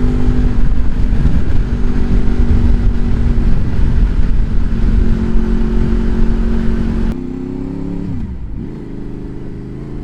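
Honda VFR's V-four engine running steadily under way with heavy wind rush. About seven seconds in, the wind noise drops off sharply as the bike slows, and the engine note dips and then climbs back up.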